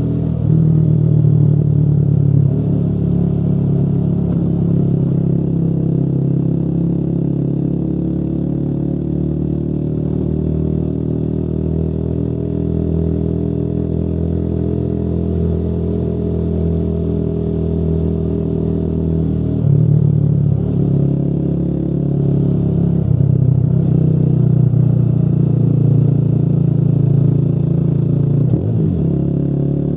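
Motorcycle engine running steadily under way. Its note climbs slowly and eases back, with brief abrupt changes in throttle about twenty seconds in and again near the end.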